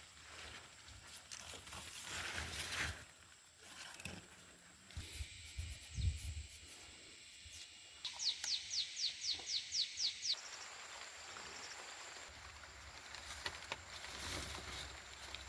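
Countryside ambience in which a bird gives a quick run of about ten descending whistled notes, roughly four a second, about eight seconds in, over a steady high hiss with a few low knocks.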